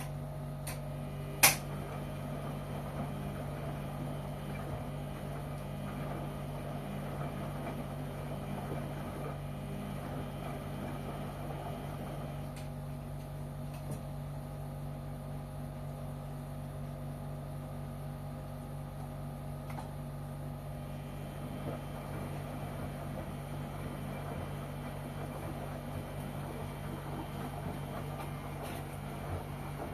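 LG washing machine running mid-cycle with a steady motor hum, and one sharp click about a second and a half in.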